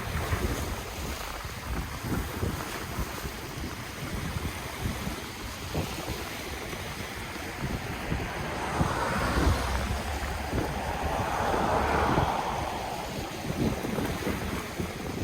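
Ocean waves breaking and washing up on the shore, with a surge of surf that builds and fades again around the middle. Wind buffets the microphone throughout with low rumbling gusts.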